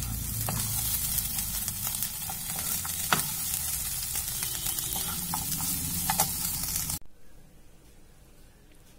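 Sliced jackfruit seeds, onion and green chillies sizzling in oil in a hot non-stick pan, with a steel spoon scraping and knocking against the pan now and then, one sharper knock about three seconds in. The sizzle cuts off suddenly about seven seconds in.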